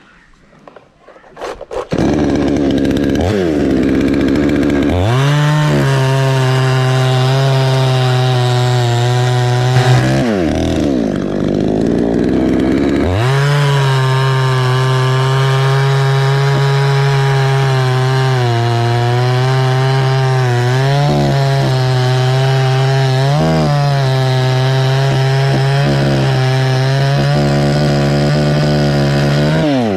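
Chainsaw starting about two seconds in and idling briefly, then revving to full throttle and cutting into anjili wood. It drops back near the ten-second mark and opens up again for a long cut, its pitch dipping slightly now and then under load.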